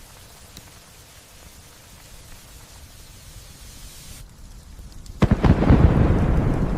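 Steady light rain hiss. About four seconds in, the high part of the hiss cuts out abruptly. A second later a loud thunderclap breaks in and rumbles on.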